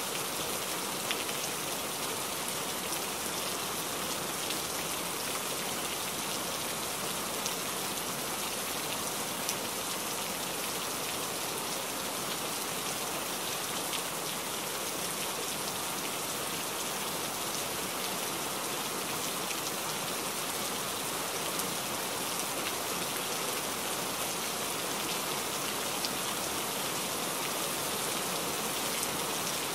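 Rain on a moving truck's windshield and cab, heard from inside, mixed with the hiss of tyres on the wet highway. It is a steady, even hiss with a few sharper ticks of single drops.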